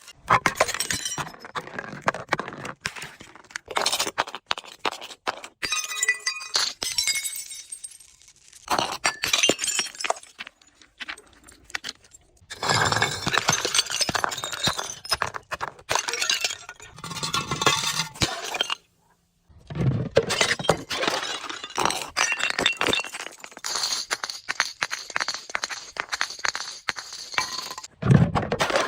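Glass bottles breaking and being crushed: repeated crunching and cracking of glass, with shards clinking and tinkling, broken by a brief moment of silence about two-thirds of the way through.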